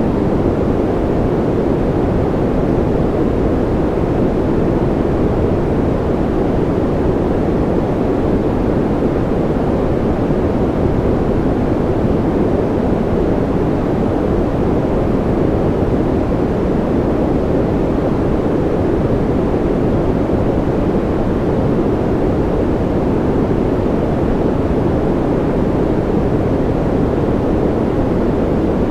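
Steady white-noise sleep track: an even, unchanging hiss that sounds dull and deep, with most of its weight low and little above about 2 kHz.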